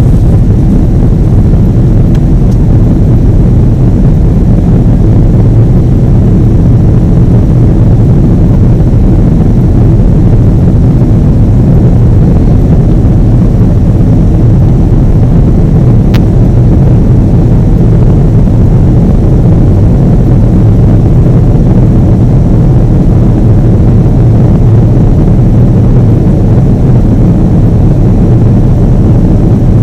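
Steady low roar of a Boeing 777's jet engines and rushing air, heard from inside the cabin, holding an even level and pitch throughout.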